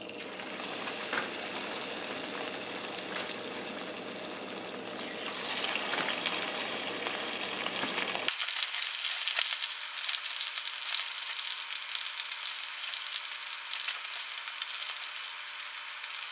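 Cornstarch-coated chicken pieces frying in hot oil in a saucepan: a steady sizzle with scattered crackles. About halfway through, a low rumble under the sizzle cuts out abruptly.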